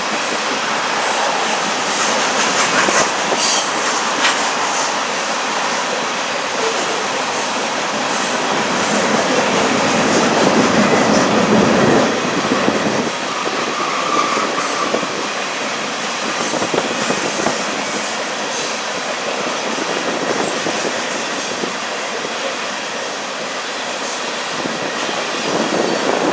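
Freight cars of a slow-moving sand train rolling past, their wheels clattering over the track with a short squeal about halfway through.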